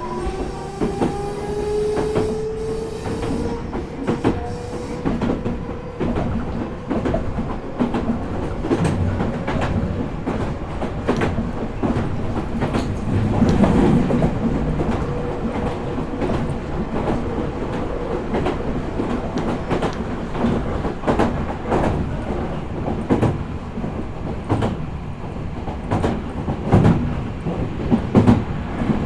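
Meitetsu 4000 series electric train heard from inside the car while running: a motor whine rises in pitch over the first few seconds and then holds steady, over a rumble and repeated clacks of the wheels over rail joints.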